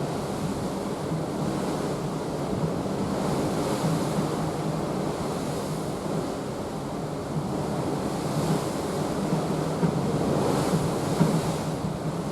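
Sea water rushing along the side of a cruise ship under way, a steady wash that swells now and then, with wind on the microphone.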